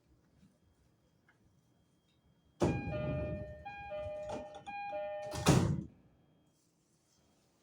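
E231-series train door chime, a two-note ding-dong played three times, followed by the sliding doors shutting with a thud.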